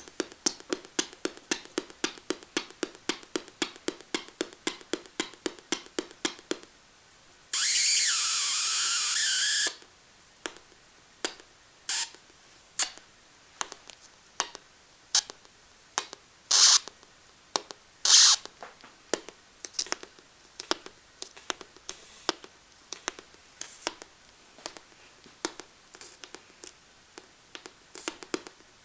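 Electronic sound effect from small LED speakers. It starts as a run of sharp clicks, about three a second, which stops about a quarter of the way in. Next comes a two-second burst of hiss with a wavering tone, then irregular clicks and short hissy bursts, two of them louder.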